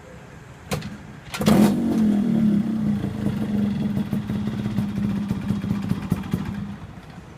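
Yamaha RX135 two-stroke single-cylinder engine with an expansion-chamber exhaust, catching with a loud burst about a second and a half in. It runs at a steady speed for about five seconds, then stops near the end.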